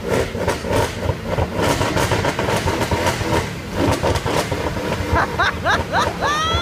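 Mercedes-Benz C63 AMG V8 in standard factory tune, revved repeatedly at a standstill, loud, with sharp crackles from the exhaust between the revs.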